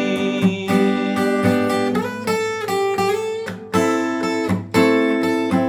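Music: acoustic guitar playing a passage of chords, with a new chord struck every second or so.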